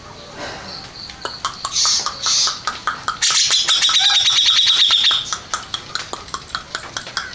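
Cucak jenggot, a bulbul, singing: scattered chirps and clicks, then a loud, fast trill for about two seconds from about three seconds in.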